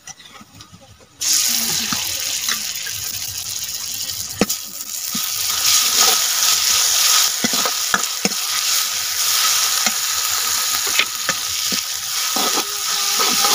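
Ginger-garlic-chilli paste sizzling loudly in hot mustard oil with fried onions in a kadai, the hiss starting abruptly about a second in. A steel ladle scrapes and knocks against the pan as it is stirred.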